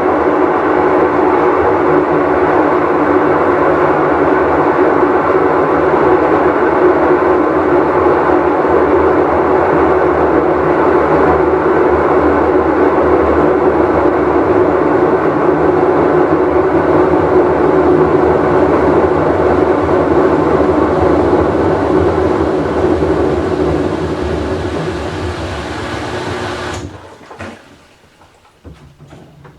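Whirlpool Cabrio top-load washer running at speed, a loud steady rumble with a constant hum from its failing tub bearing. It winds down over the last few seconds and drops away sharply near the end.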